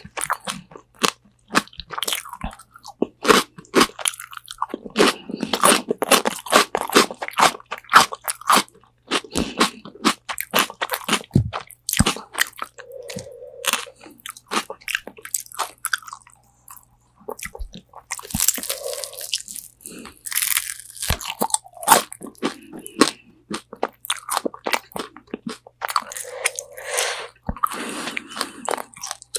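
Close-miked biting and chewing of crispy Korean spicy fried chicken wings: sharp, irregular crunches of the fried coating, with softer chewing between bites and a brief pause a little past halfway.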